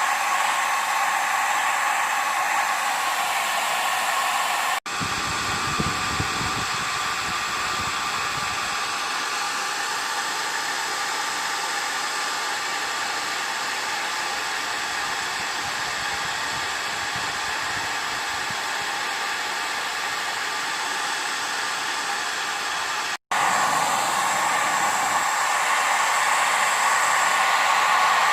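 Steady whir and rush of air from a small electric blower, working to melt ice off a frozen dehumidifier coil. The sound breaks off for an instant about five seconds in and again near the end.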